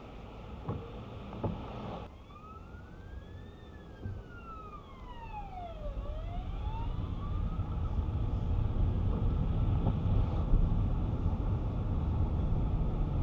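An emergency vehicle's siren wailing once, its pitch rising, falling and rising again, heard over the car's engine and road noise, which grow louder through the second half.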